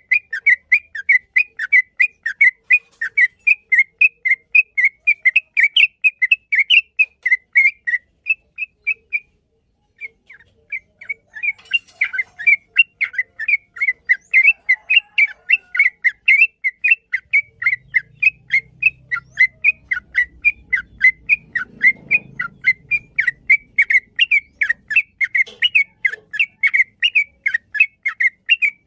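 Yellow-vented bulbul (trucukan) singing a long, fast run of short repeated chirping whistles, several a second, breaking off for about a second roughly nine seconds in before going on.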